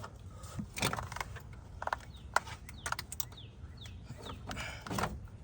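Scattered metal clicks and knocks as an alternator is worked into place in a car's engine bay.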